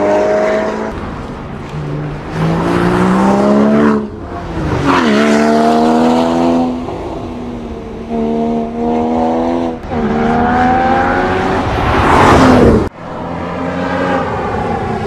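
High-performance sports car engine revving and accelerating hard, its pitch climbing and dropping again several times as it goes through gears, with a loud rising swell near 12 seconds that cuts off abruptly just before 13 seconds.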